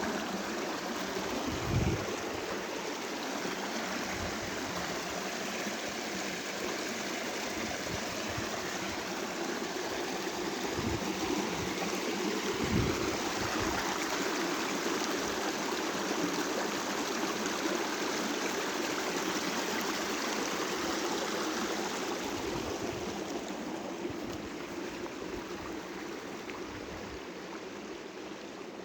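Steady rushing of flowing rainwater, like a rain-swollen stream, with a couple of brief low bumps about two and thirteen seconds in; it grows fainter near the end.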